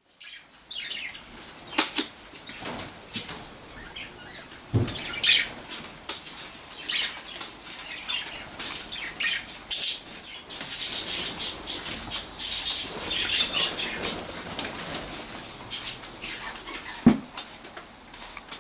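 Budgies fluttering and flapping their wings in irregular flurries, thickest about halfway through, with a couple of sharp knocks.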